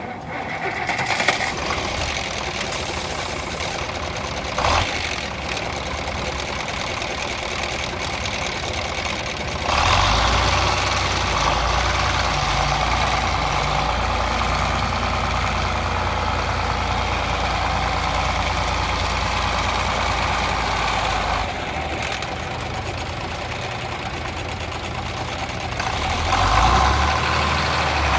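John Deere 4020 Powershift tractor's six-cylinder engine running, throttled up about ten seconds in, eased back down around twenty-one seconds, and raised again near the end. A brief knock sounds a little under five seconds in.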